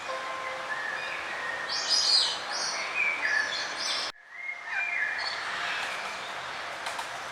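Several songbirds chirping and singing in quick, varied high notes over a steady outdoor hiss. About four seconds in the sound cuts out for a moment, then the chirping picks up again.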